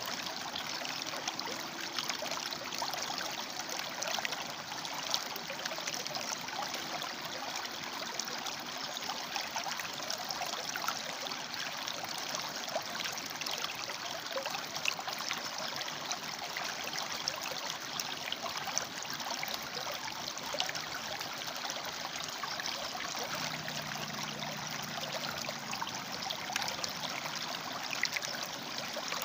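River water flowing steadily over and between rocks, a continuous rushing with small splashes and gurgles throughout.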